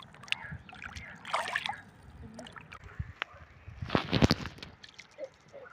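Water splashing and sloshing, with the loudest splash about four seconds in.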